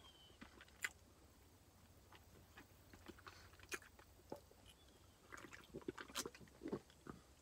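Faint mouth sounds of chewing a soft protein brownie, with small scattered clicks, then a few swallows from a drink can in the second half.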